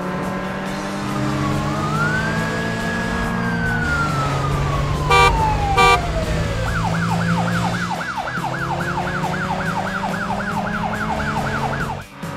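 Cartoon police siren over a running car engine: one slow wail that rises then falls away, then a fast yelp cycling about four times a second. Two short car horn honks come about five and six seconds in.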